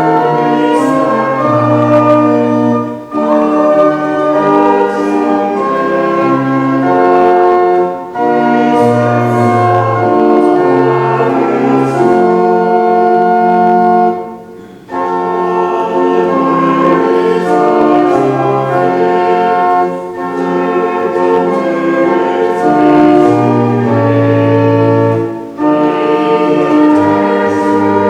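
A hymn sung by a choir with organ accompaniment: sustained chords in lines, with a brief pause between lines about every five to six seconds.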